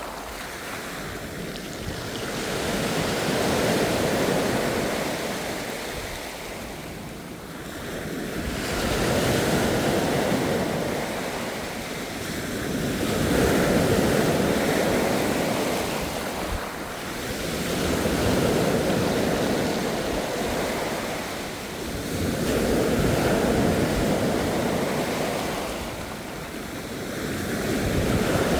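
Ocean surf: waves breaking and washing in, the rushing sound swelling and falling back about every four to five seconds.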